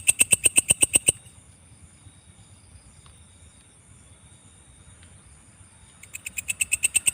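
Belalang kecek katydid calling: a fast, even train of high chirping pulses, about ten a second. It stops about a second in and starts again, building up, near the end.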